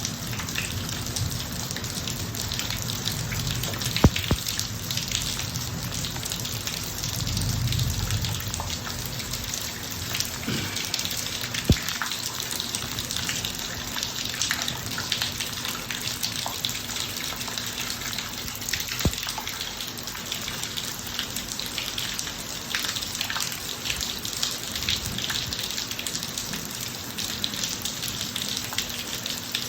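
Steady rain falling on a driveway, an even hiss full of small drop ticks. Two sharper drip knocks stand out, about four seconds in and again about twelve seconds in.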